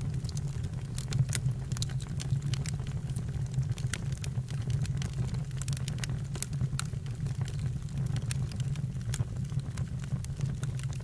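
Campfire burning: a steady low rumble from the flames with frequent irregular crackles and pops from the burning wood.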